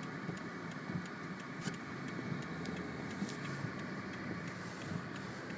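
Car engine running, heard from inside the cabin as the car pulls away from a traffic light on a snowy street, with a steady low hum and scattered light clicks.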